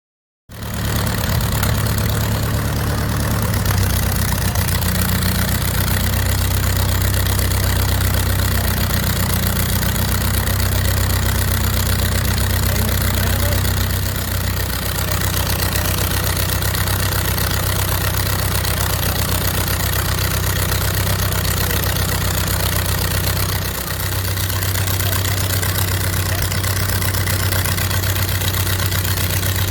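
The engine of Liberty The Second running steadily at idle, a deep even note, with a brief dip about halfway through and another later on.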